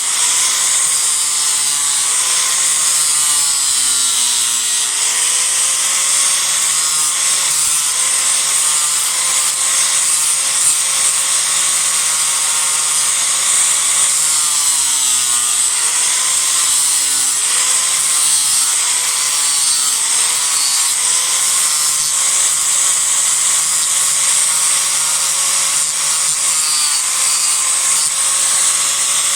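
Disc grinder carving into a block of Japanese cedar: a continuous motor whine over a loud hiss of abrading wood, the pitch sagging again and again as the disc bites into the wood and recovering as it eases off.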